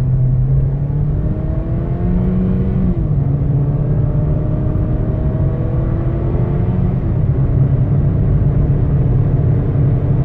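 2013 Ford Fiesta's 1.6-litre four-cylinder engine under hard acceleration, heard from inside the cabin: the engine note climbs steadily, drops as the automatic transmission upshifts about three seconds in and again about seven seconds in, then climbs again, over a steady road rumble.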